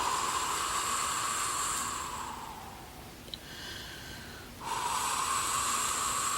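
A woman's voice imitating the wind in the trees: two long breathy whooshing blows, each about three seconds, the second starting a little past halfway.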